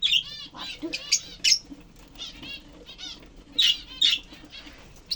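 Lovebirds calling in a rapid run of shrill, high-pitched chirps and squawks, with the loudest calls at the start, about a second in, and twice near the four-second mark.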